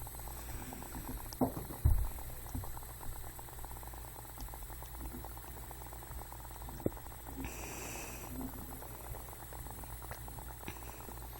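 A continuous fast bubbling, gurgling noise made of many tiny crackles, with a couple of louder knocks about one and a half to two seconds in.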